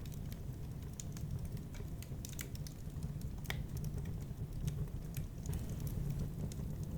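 Wood fire in a fireplace crackling: irregular small pops and snaps over a steady low rumble, with one stronger pop about three and a half seconds in.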